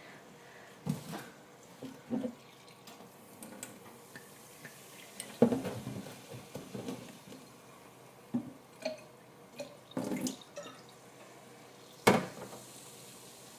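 Dripping liquid and scattered knocks and clicks as a bottle and kitchen things are handled; a sharp knock about five seconds in and another near the end are the loudest.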